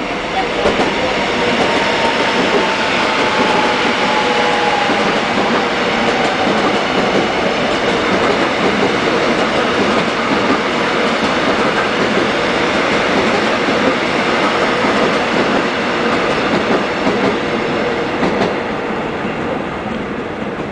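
An electric commuter train (a Seoul Metropolitan Subway EMU) runs past on the near track, making a loud, steady rumble of wheels on rail that fades near the end as the last car clears. Over the first few seconds a faint tone slides down in pitch.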